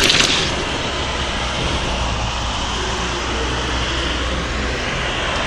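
A steady rushing noise with a low rumble underneath, holding at an even level throughout.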